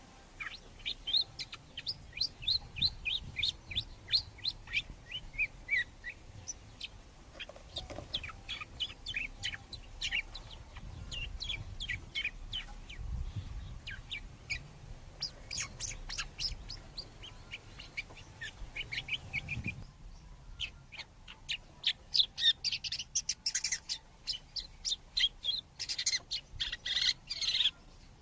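Long-tailed shrikes chirping: rapid runs of short, high chirps, several a second, with a low rumble underneath that drops out about two-thirds of the way through.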